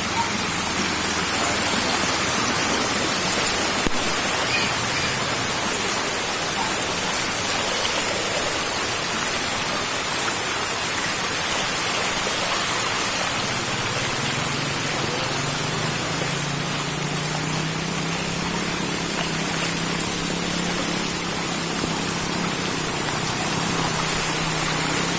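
Steady hiss of heavy rain falling. About halfway through, a low steady hum joins it.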